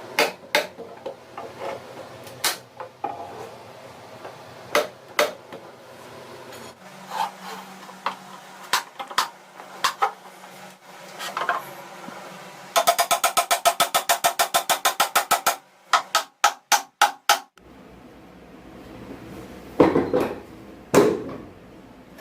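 Hand tools knocking and tapping on metal machine parts: scattered sharp strikes, then a quick ringing run of about eight blows a second lasting a couple of seconds, followed by a few slower hits.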